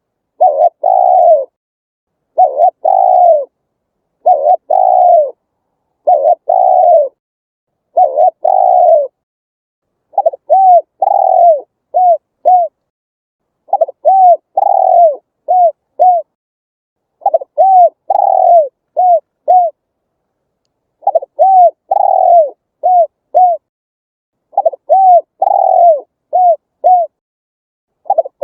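Spotted dove cooing in repeated phrases. The first several are short coos about one and a half seconds apart. From about ten seconds in, each phrase grows into a longer rising-and-falling coo followed by two or three short, quick coos, repeated every few seconds.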